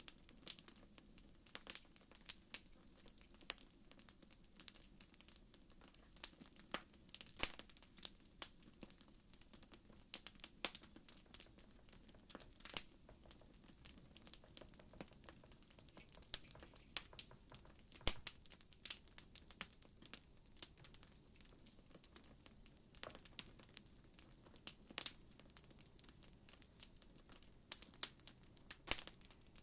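Wood fire crackling: irregular sharp pops and snaps, several a second, over a quiet low hiss.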